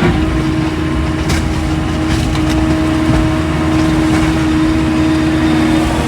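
An engine running steadily at a constant speed, giving a continuous even hum, with a faint tick about a second in.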